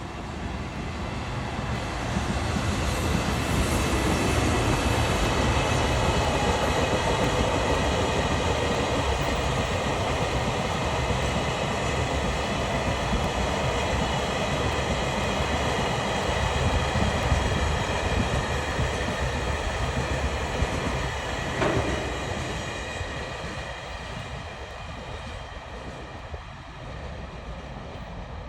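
Freight train hauled by an EF210 electric locomotive running past, its wheels rolling and clattering over the rails. It swells over the first few seconds, holds loud, then gradually fades in the last stretch, with a single sharp knock about 22 seconds in.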